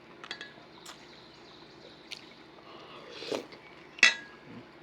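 A spoon clinking against the container and milk sloshing as cereal with milk is scooped up and eaten. There are several sharp clinks, and the loudest rings briefly about four seconds in.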